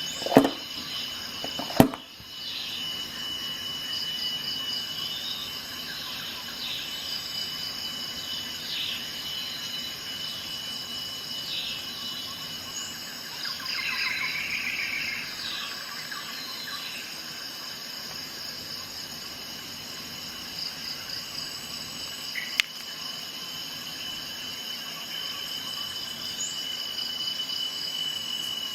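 Steady insect chorus, a continuous high trill with short chirps layered over it. Sharp clicks come twice in the first two seconds and once more about two-thirds of the way through.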